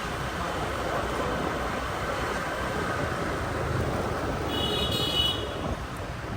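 Steady rumble of a motorbike riding through traffic, with road and wind noise. About four and a half seconds in, a brief high-pitched tone sounds for about a second.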